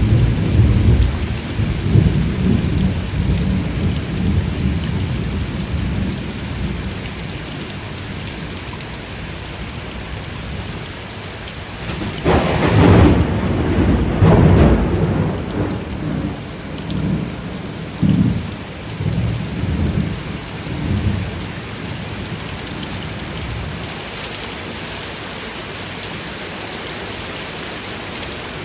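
Steady rain in a thunderstorm. Low rolling thunder rumbles through the first few seconds, a loud thunderclap comes about twelve seconds in, and it rolls away in rumbles until about twenty seconds in, leaving the rain alone.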